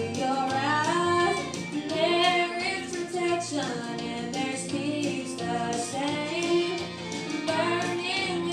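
A young woman's solo voice singing a country gospel song over instrumental accompaniment.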